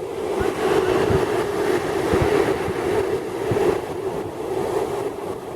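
Ocean surf: a wave rolling in and washing up the beach, a rushing noise that swells and then eases, with low thumps of wind buffeting the microphone.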